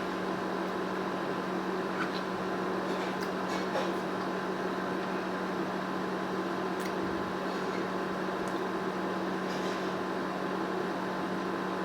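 Steady mechanical hum holding one unchanging pitch, with a few faint, soft clicks scattered over it.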